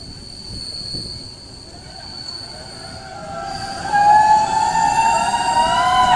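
Train running, with its wheels breaking into a loud, wavering metallic squeal about four seconds in.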